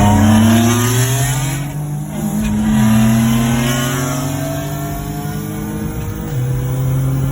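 Turbocharged Infiniti G37's 3.7-litre V6 accelerating hard, its pitch climbing through a gear. About two seconds in the pitch drops at a gear change, then climbs again more slowly through the next gear.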